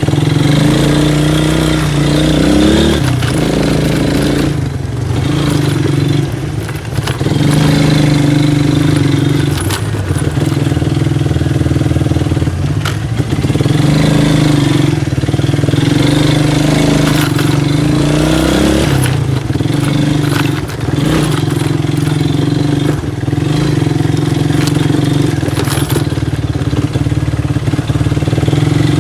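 An engine running steadily, its pitch dipping and rising again every few seconds.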